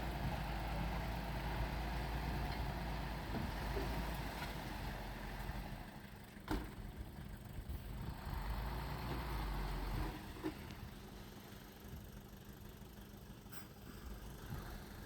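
Heavy diesel earthmoving machinery running with a steady low drone that drops away about six seconds in, comes back, then fades after about ten seconds. Two sharp clicks stand out, one mid-way and one near the end.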